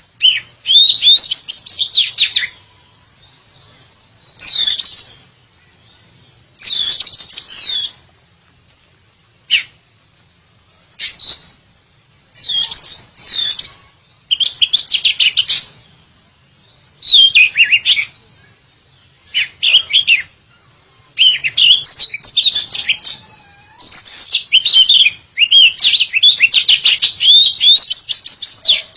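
Oriental magpie-robin (kacer) singing: bursts of rapid, varied whistled and chattering phrases, a second or two each with short pauses, running together into almost continuous song over the last third.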